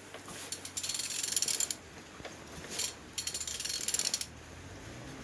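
Ratchet wrench clicking in three bursts of rapid clicks, the middle one short, as it is worked back and forth on the crankshaft to turn over an Opel A16XER 1.6-litre four-cylinder petrol engine by hand. The engine turns over freely.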